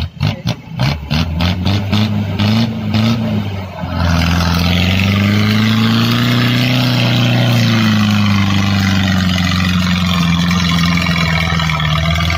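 Jeep CJ7 engine working hard under load on a steep dirt climb, with a run of sharp knocks, about three a second, over the first four seconds. From about four seconds in it runs loud and continuous, its revs rising and then easing back as it pulls up the slope without losing power.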